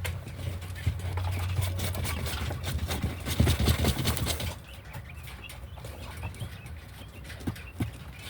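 Pet hens shuffling and pecking: rustling and a run of sharp taps, dense and loudest for the first four and a half seconds, then scattered taps with soft clucks.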